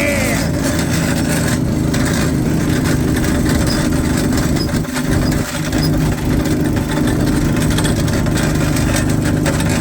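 A vehicle engine running hard and steady under load, trying to climb a snowy, icy hill, with a brief dip in power about five seconds in.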